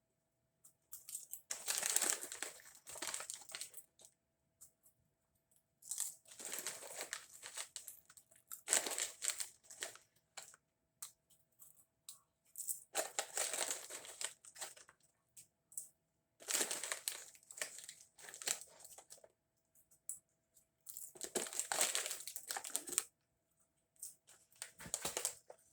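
Rustling, crinkling handling noise in repeated bursts of a second or two, about every three to four seconds, over a faint steady hum.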